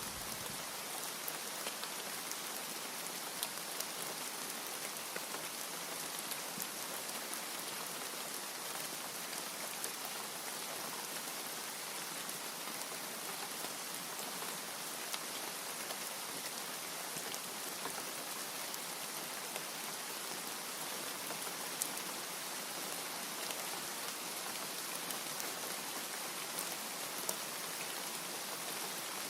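Steady rain falling, an even hiss with scattered drops ticking, on and on without thunder.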